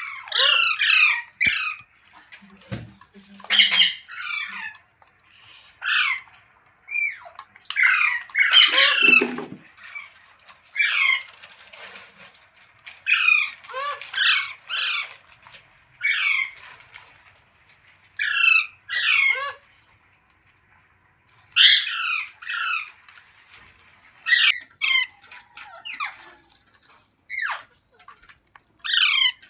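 Ringneck parrot squawking: short, harsh, falling screeches repeated again and again, often in quick pairs, over a faint steady high hiss.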